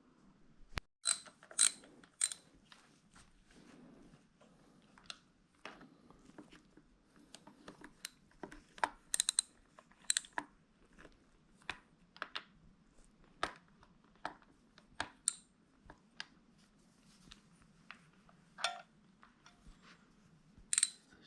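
Hand tools working the 8 mm bolts on an ATV engine's top cover: scattered, irregular metal clicks and clinks of a socket wrench and bolts.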